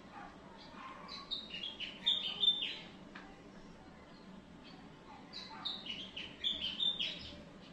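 A bird singing: two phrases of quick chirps that step down in pitch, about a second in and again about five seconds in.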